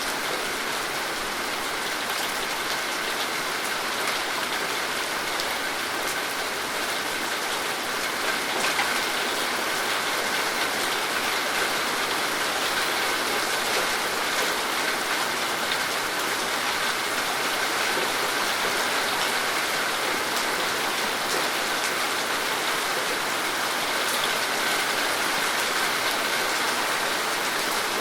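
Steady rain falling, a dense even hiss of many drops striking a surface, with fine drop ticks throughout.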